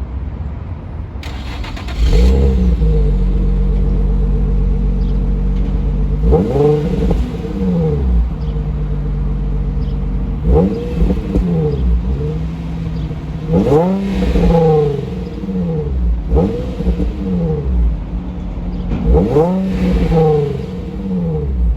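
Exhaust of a 2006 Infiniti G35's 3.5-litre V6 with the muffler deleted, running at a steady idle and then blipped about five times, the pitch rising and falling with each rev.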